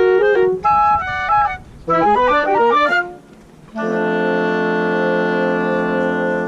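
Woodwind quintet music: quick runs of short clarinet-led notes, a short break about three seconds in, then one long held closing chord.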